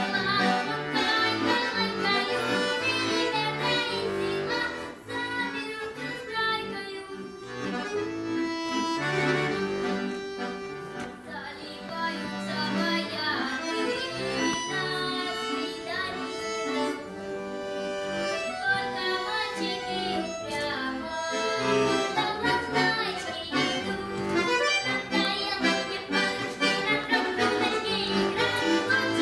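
Accordion playing solo: quick runs of melody over held bass notes and chords.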